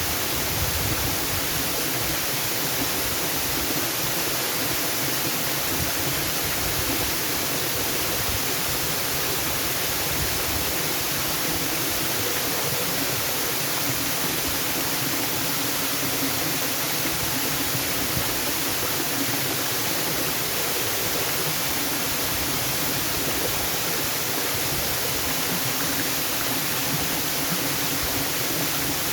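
Waterfall: the steady, even rush of falling water, unchanging and without breaks.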